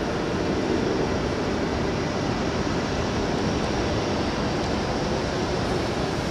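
Steady rushing roar of jet aircraft engines, with a faint steady hum running through it.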